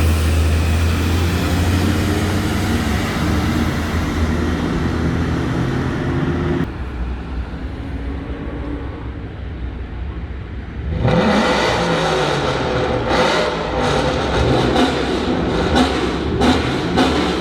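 Motor vehicle engines in street traffic: a steady engine drone that cuts off abruptly, a quieter stretch, then an engine revving up loudly with a rising pitch about eleven seconds in and staying loud.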